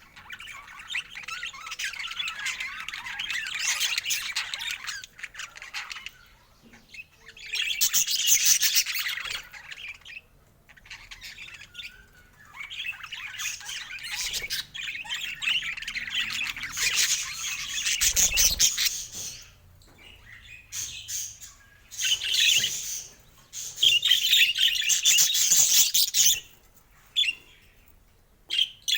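Budgerigars chattering and squawking in several stretches of rapid warbling a few seconds each, with short quiet gaps between them.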